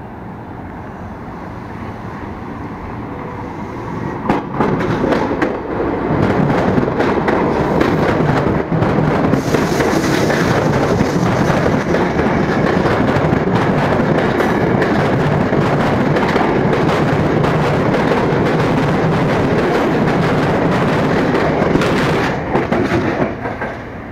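KRL Commuterline electric commuter train running in alongside the platform, its wheels clattering over the rail joints. The noise builds over the first few seconds, stays loud and steady with many sharp clacks, and dies down near the end.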